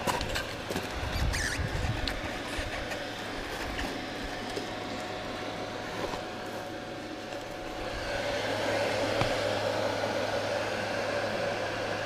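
KTM dirt bike engine idling steadily, with scraping and clatter in the first couple of seconds as the bike is handled on rocky ground. The running sound grows a little louder about eight seconds in.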